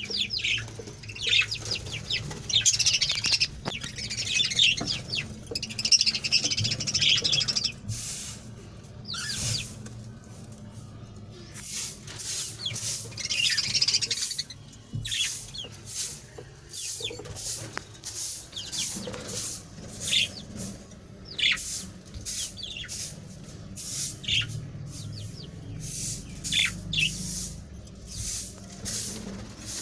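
A colony of budgerigars chirping and chattering: dense warbling for the first several seconds, then a run of short, sharp calls, about two a second, over a steady low hum.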